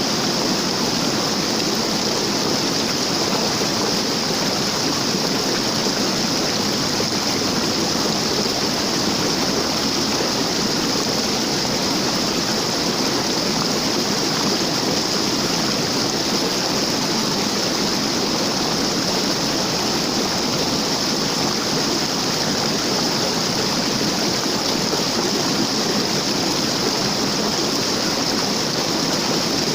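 Waterfall: falling water rushing steadily, an even unbroken roar of water.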